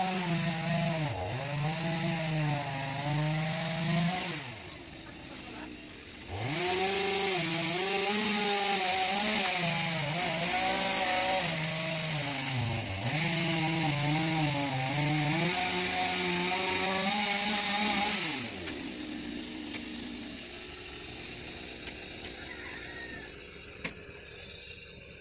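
Electric power tool cutting, its motor whine dipping in pitch again and again as it bogs under load. It is switched off about 4 s in and winds down, starts again about 6.5 s in, and winds down again after about 18 s.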